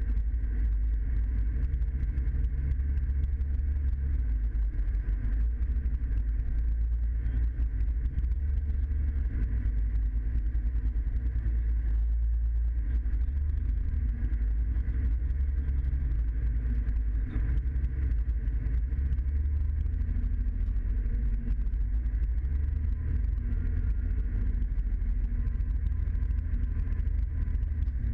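Scania truck's diesel engine running steadily, a deep low drone with no change in pace.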